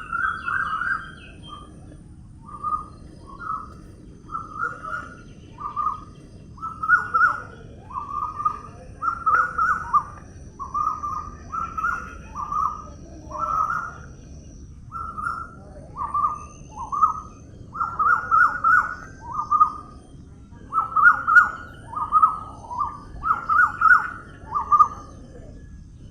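A bird calling over and over in short, similar notes, one or two a second, with a few brief pauses, over a steady low background hiss.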